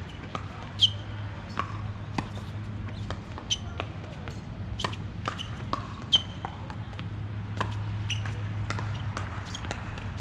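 A ball bouncing again and again on a hard court, each bounce a sharp impact with a short ringing ping, at irregular intervals of about one or two a second. A steady low hum runs underneath.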